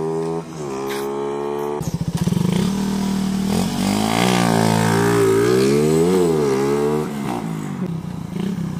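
Suzuki Raider 150 motorcycle engine revving hard under acceleration: its pitch climbs, drops sharply at a gear change about half a second in, climbs again, then rises and falls several times as the bike rides close past before settling lower.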